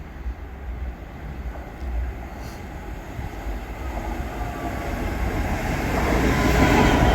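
A train approaching, its rumble and wheel noise on the rails growing steadily louder toward the end.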